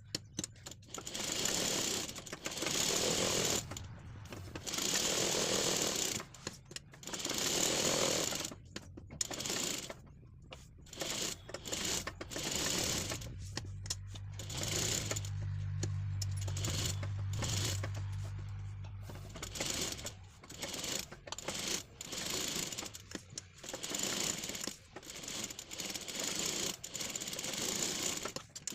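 Electric sewing machine stitching fabric in repeated runs of a second or two, stopping and starting, with one longer steady run with a low motor hum about halfway through.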